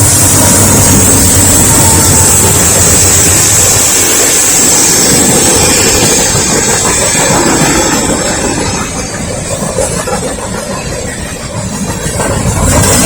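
Norfolk Southern freight cars, mostly empty, rolling past on the rails: a loud, steady rumble and rattle of wheels and car bodies, with a thin high-pitched ring over it. The noise eases somewhat for a few seconds near the end, then comes back up.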